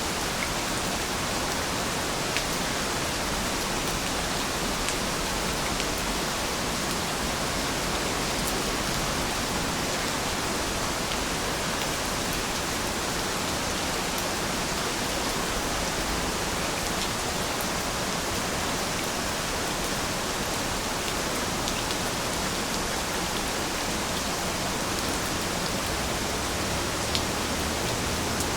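Steady rainfall, a dense even hiss with scattered small drop ticks.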